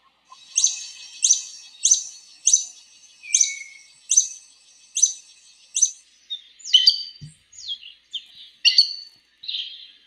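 Bird calls: a sharp, high note sliding downward, repeated eight times at an even pace, then a more varied run of chirps and whistles from about six and a half seconds in.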